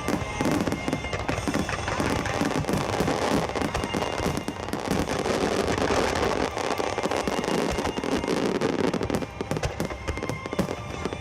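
Fireworks display: many shells bursting and crackling densely without a break, with music playing over loudspeakers.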